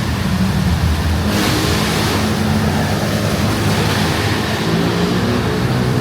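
A motor vehicle's engine running close by, its pitch shifting a little partway through, over a steady hiss.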